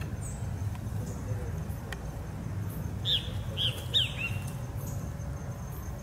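A small bird gives four quick, high chirps, each falling in pitch, about three seconds in, over a steady low background rumble.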